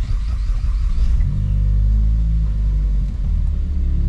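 Ford Focus ST's turbocharged four-cylinder just after starting: the revs rise in the start-up flare about a second in, hold, then fall back to a steady idle about three seconds in.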